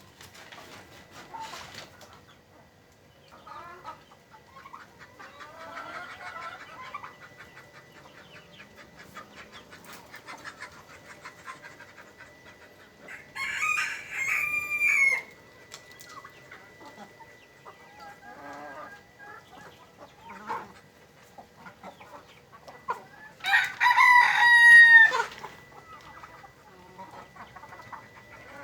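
Chickens clucking, with a rooster crowing twice: once about halfway through and again a few seconds before the end, each crow lasting about two seconds.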